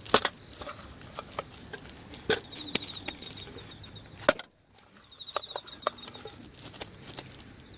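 A few sharp wooden knocks and lighter clicks, from hands working with utensils on wood during camp-cooking prep, over a steady high-pitched insect drone. All sound drops out briefly just past halfway.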